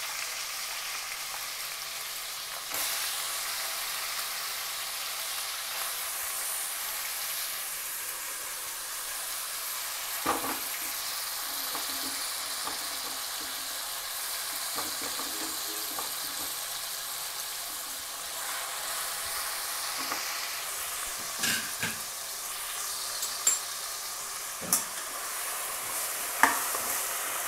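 Masala-coated crab pieces sizzling in hot oil in an aluminium pressure cooker: a steady frying hiss. A sharp knock of a metal spatula on the pot comes about ten seconds in, and several more come in the last seven seconds as the crabs are stirred.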